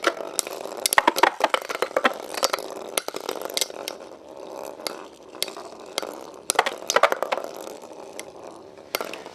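Two metal Beyblade spinning tops, Lightning L-Drago 100HF and Burn Fireblaze 135MS, whirring in a battle stadium and repeatedly clashing and rattling against each other and the stadium walls. The clashes come thickly in the first few seconds, ease off, then pick up again briefly near the seven-second mark.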